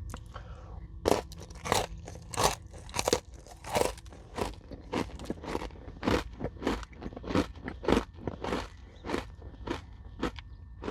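Close-up crunchy chewing of a hard Nature Valley peanut butter granola bar, a sharp crunch about twice a second starting about a second in.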